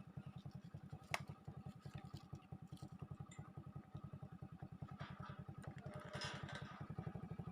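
Motorcycle engine idling, an even low pulsing of about twelve beats a second, with one sharp click about a second in.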